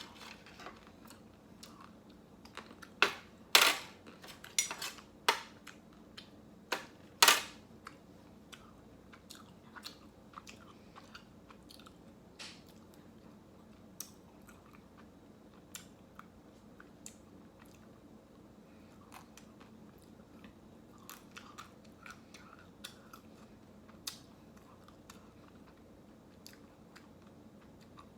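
Close-up mouth sounds of someone eating ice cream: soft chewing and smacking throughout, with a cluster of loud, sharp crunching bites between about three and seven seconds in.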